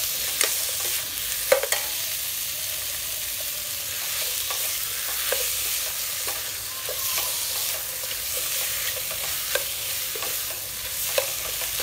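Raw frog meat sizzling in hot oil and fried lemongrass paste in a stainless steel pot, stirred with a metal ladle. The ladle scrapes and clinks against the pot several times, sharpest about a second and a half in and near the end.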